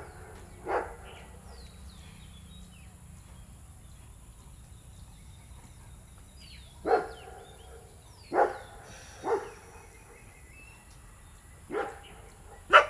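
Dog barking in single sharp barks, about six, irregularly spaced: one near the start, then a cluster in the second half, the last the loudest.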